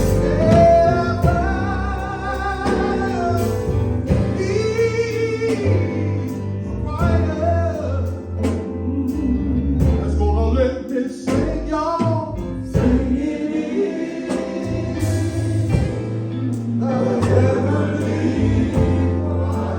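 Gospel song of invitation, sung with vibrato over steady instrumental accompaniment.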